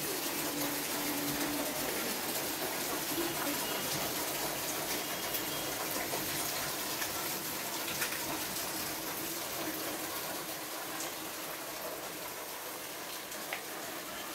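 Steady rain falling, an even hiss with a couple of faint ticks.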